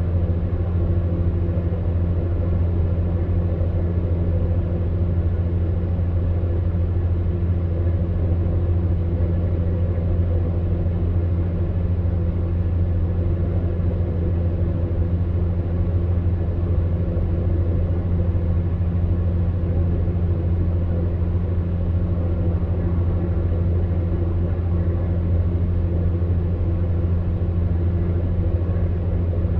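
Electric fan heater running with a steady, even low hum.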